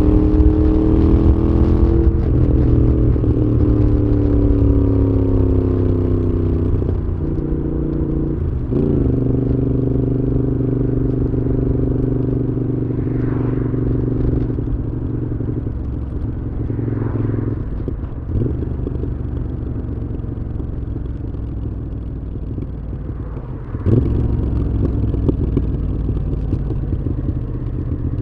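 Moto Guzzi V7's air-cooled transverse V-twin running through a Mistral exhaust while riding. The engine note falls during the first few seconds, holds steady, then eases off and grows quieter through the middle. A sharp knock comes about 24 seconds in, after which the engine gets louder again.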